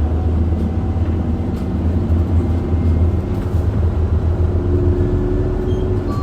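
Running sound heard inside an Isuzu Erga city bus (QDG-LV290N1), its four-cylinder turbo diesel engine and drivetrain humming steadily as the bus drives along.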